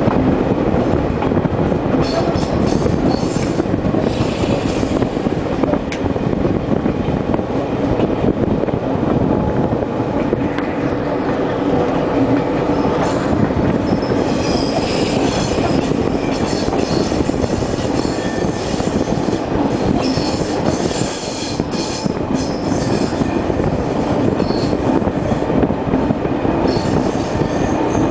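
Passenger train running along the line, heard from aboard the carriage: a steady rumble of wheels on rail, with high wheel squeal coming and going, strongest about halfway through and again near the end.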